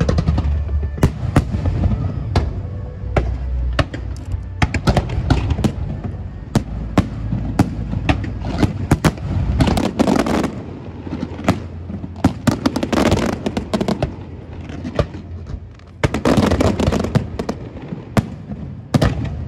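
Fireworks display: a rapid, irregular series of shell bursts and bangs, with denser spells of crackling about halfway through and again near the end.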